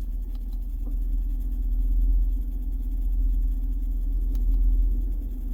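2011 GMC Yukon Denali's engine idling, heard inside the cabin as a steady low rumble with a steady hum, and a few faint clicks from the dashboard controls.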